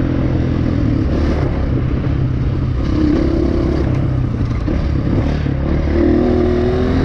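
Single-cylinder enduro dirt bike engine running under load along a trail, picking up revs about three seconds in and again near the end, with rushing wind and some rattling from the bike.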